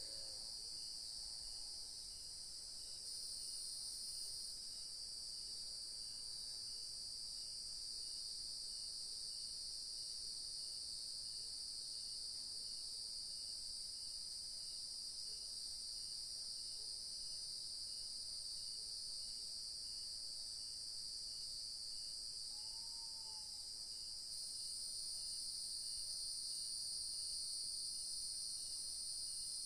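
Evening chorus of crickets and other insects trilling steadily in layers. One higher-pitched layer drops out a few seconds in and comes back near the end. A short arching call sounds twice, late on.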